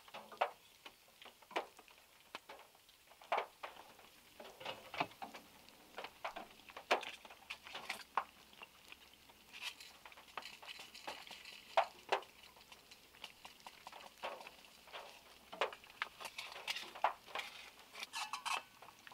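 Heavy rain drops falling from trees and hitting a small car's roof and body: sharp, irregular taps a few times a second over a faint hiss of rain, heard from inside the car.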